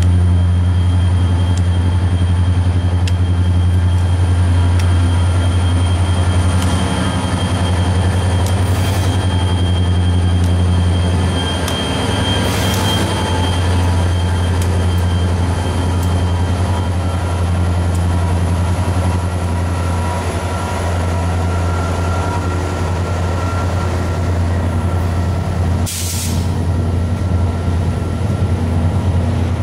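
Diesel freight locomotives running close by, a steady low engine drone with its overtones throughout. Three short hisses of air break in, about 9, 12 and 26 seconds in.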